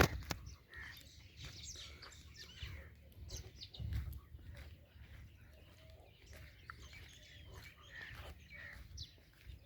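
Many small birds chirping and calling in short notes. A sharp click right at the start, and an intermittent low rumble that swells about four seconds in.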